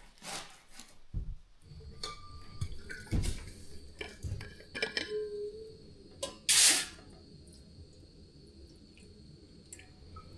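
Cups and utensils knocking and clinking with water sounds while tea is being made, with a steady low background hum. There is one short, loud hiss about six and a half seconds in.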